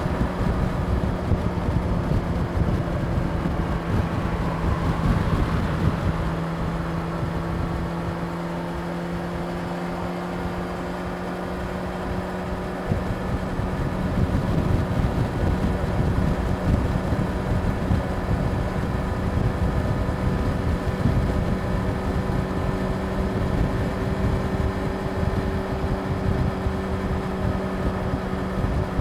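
Yamaha YZF-R6's 600 cc inline-four engine running at a steady cruise, with wind rumbling on the microphone. The engine eases off a little around seven seconds in and picks up again after about twelve seconds.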